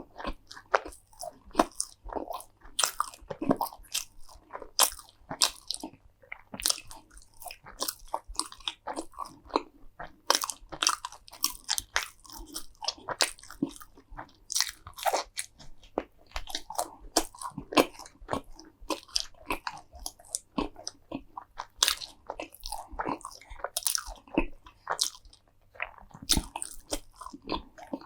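Close-miked eating of crunchy food: repeated bites and chewing, each crunch a sharp crackle, several a second and irregular throughout.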